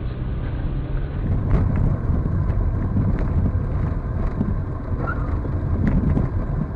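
Dashcam recording of a car on the road: low engine and tyre rumble with wind on the microphone, and a few sharp clicks.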